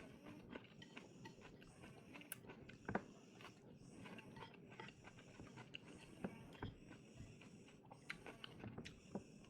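Faint sounds of a person eating: chewing, with many small scattered clicks and a few sharper taps.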